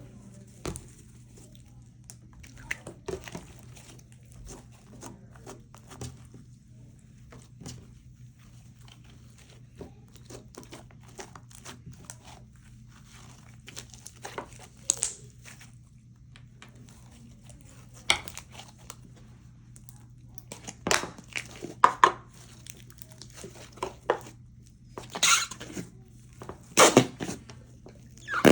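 Slime being squished and stretched by hand, giving irregular sticky clicks and crackles. They are sparse at first and grow louder and more frequent in the second half, over a low steady hum.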